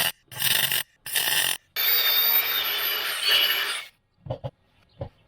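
MIG welding on thin car body steel: short crackling bursts of stitch welding, then one longer run of about two seconds, stopping near the end.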